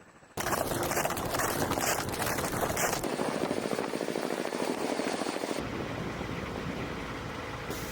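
Loud, steady aircraft engine and rushing-air noise. It starts abruptly a moment in and changes character suddenly twice, about three and five and a half seconds in.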